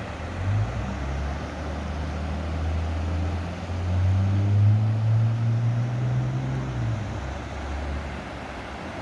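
Floodwater rushing with a steady hiss, while a motor vehicle's engine hum builds, is loudest about halfway through and fades away a couple of seconds before the end.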